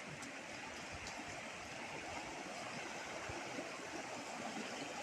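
River water rushing steadily over its bed, a rain-fed river running high.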